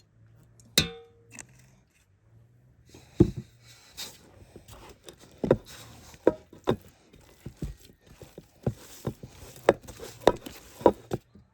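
Kitchen work sounds: a single ringing metallic clink about a second in, then a run of irregular knocks and taps over a light hiss.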